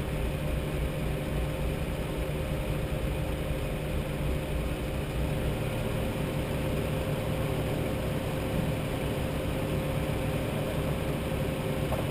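Off-road 4WD's engine idling steadily.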